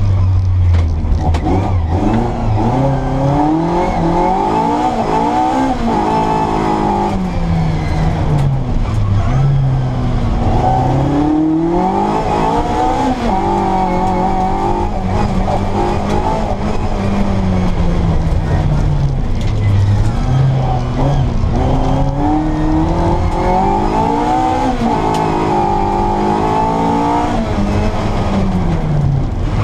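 Classic Mini Cooper S rally engine with an Arden 8-port cylinder head and twin Weber 40 DCOE carburettors, driven hard: the revs climb, hold and drop again and again through gear changes and lifts, dipping lowest about a third and two-thirds of the way through.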